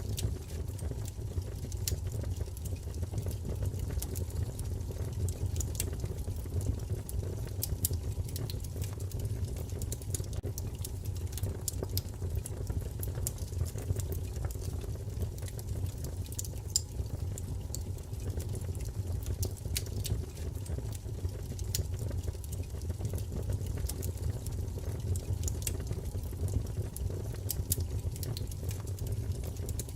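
Wood fire burning in a fireplace: a steady low rumble with many scattered sharp crackles and pops.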